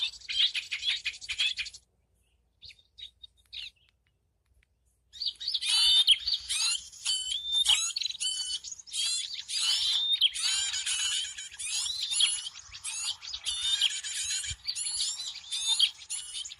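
Recorded bird-lure calls: several small birds chirping and calling rapidly in a busy, overlapping chorus. The calling breaks off for about three seconds, with only a few faint chirps, then starts again densely about five seconds in.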